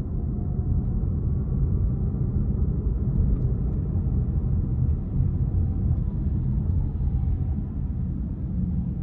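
Steady low rumble of a car driving, road and engine noise with no sharp events.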